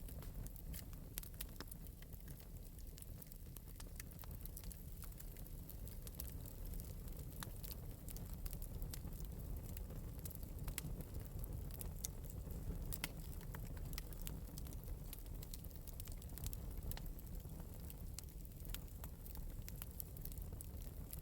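Wood fire crackling in an open metal fireplace: a steady low rumble of flames with frequent small sharp pops and snaps scattered irregularly throughout.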